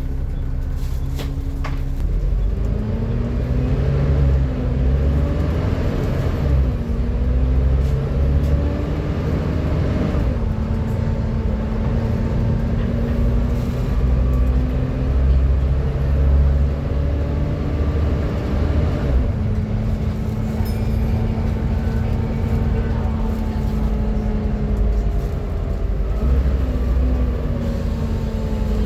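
Volvo B7TL double-decker bus's six-cylinder diesel engine and driveline under way, with a loud whine of the kind bus enthusiasts call a 'hoover'. The pitch holds steady for stretches, then shifts and drops about every eight to ten seconds as the bus changes speed and gear.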